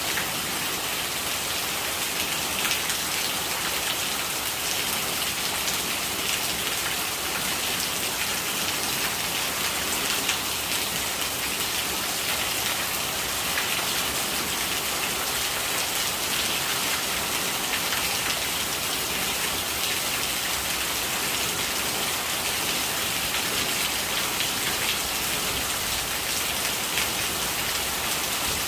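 Steady rain falling, with dense patter of raindrops on surfaces and running rainwater.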